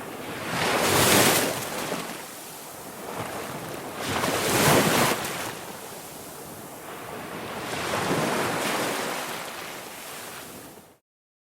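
Ocean waves: three swells of surf, each rising and falling, about three and a half seconds apart. The sound cuts off suddenly near the end.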